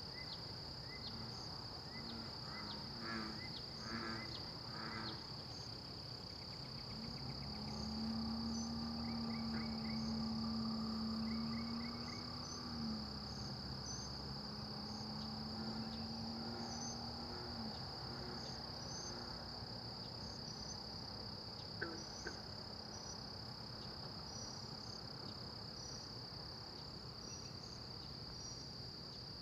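Night insect chorus: a steady high-pitched buzz under short, regularly repeated chirps, with a few quick pulsed calls in the first seconds. From about seven seconds in, a low steady hum joins for about ten seconds, then stops.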